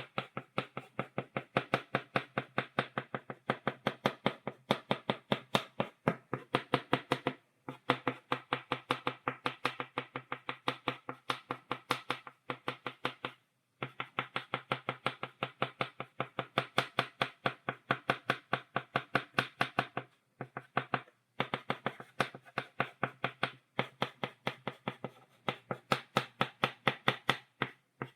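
Chalk tapped against a blackboard in quick dotting strokes, about five taps a second, in runs broken by short pauses.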